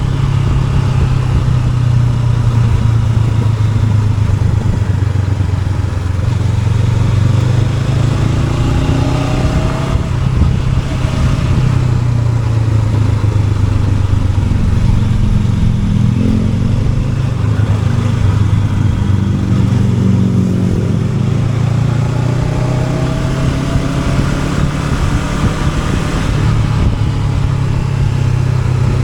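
Honda NX500's parallel-twin engine running while being ridden, its revs rising and falling several times through the bends, over a steady rush of wind and road noise.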